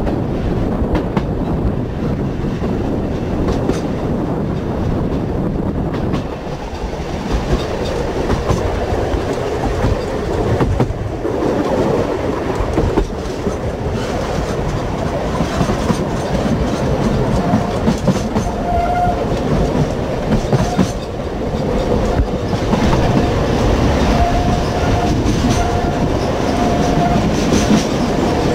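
Electric rail car on the Sóller line running along the track: a steady rumble with the wheels clicking over rail joints. A thin steady tone comes and goes in the second half.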